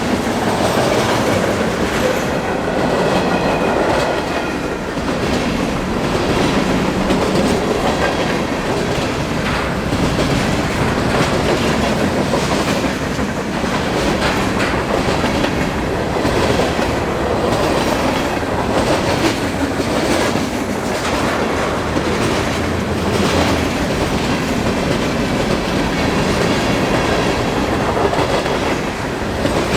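Train passing close by: a steady, loud rumble of railcars rolling, with repeated clacks of the wheels over rail joints.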